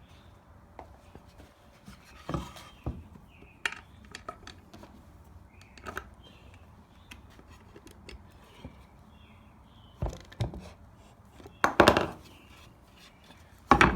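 Scattered light clinks and knocks of metal hardware and hand tools handled on the wooden plaque as the plate is fastened down, with a few louder knocks in the last few seconds.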